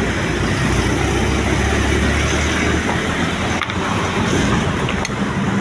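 A motor vehicle's engine running with a steady low rumble that eases off about three seconds in, and a couple of short knocks later on.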